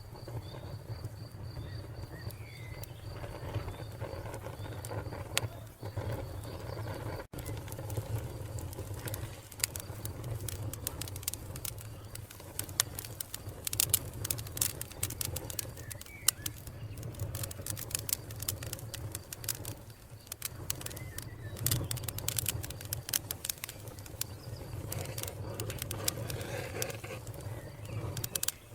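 Wood fire crackling and popping, with many sharp snaps that come thickest in the middle, over a steady low rumble. Crickets chirp in rapid pulses during the first few seconds, and a bird chirps briefly now and then.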